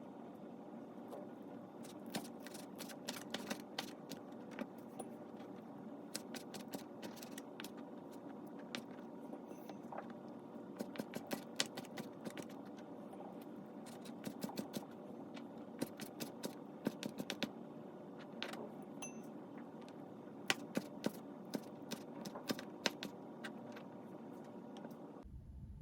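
Kitchen cooking sounds: irregular sharp clicks and clatters over a steady hum, cutting off near the end.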